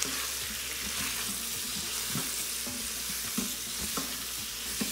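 Sliced onions sizzling in hot olive oil in an Instant Pot's stainless steel inner pot on the sauté setting. They are stirred with tongs that knock lightly against the pot a few times.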